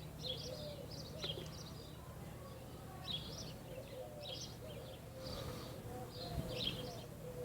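Outdoor bird calls: small birds chirping repeatedly in short high notes, with a soft low cooing underneath.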